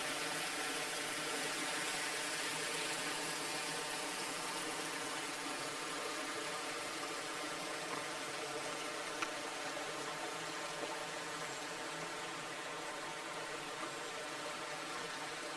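Steady rush of flowing water, even and unbroken, with a single small click about nine seconds in.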